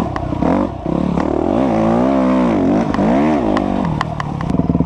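Dirt bike engine just started, revved up and back down twice, then settling into a steady idle near the end.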